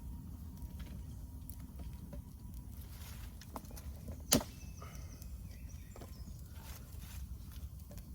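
Freshly lit campfire of dead wood crackling, with scattered small clicks and one sharp loud crack a little after four seconds, over a steady low rumble of wind on the microphone.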